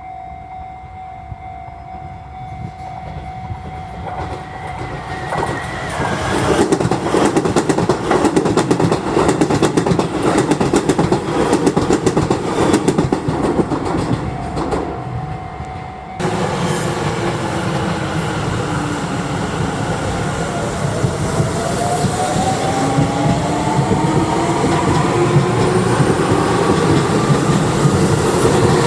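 Electric commuter trains: a Keisei N800 series train runs by with its wheels clattering over the rail joints. After a cut, a Seibu 20000 series train runs with its traction motor whine rising steadily in pitch as it gathers speed.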